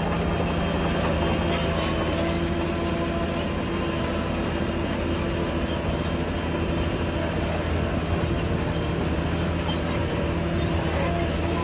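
Heavy diesel earthmoving machinery running steadily, a constant low engine drone that holds one pitch without revving.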